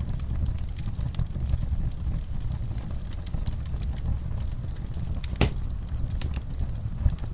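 Wood fire in a fireplace burning with a steady low rumble and scattered small crackles, and one louder pop about five seconds in.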